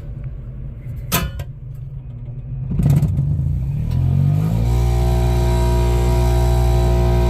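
Swimsuit spin dryer starting up: a click, then its motor winds up in a rising whine over about two seconds and settles into a loud, steady hum.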